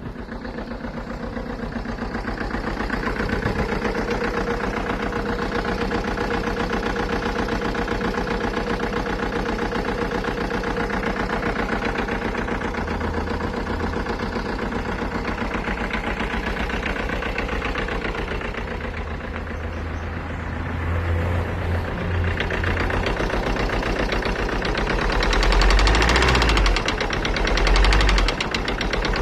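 2011 Alfa Romeo Giulietta engine running with a rapid, even knocking, which the owner takes for engine knock and a misfire. It gets louder after about 20 seconds, with low rumbling swells near the end.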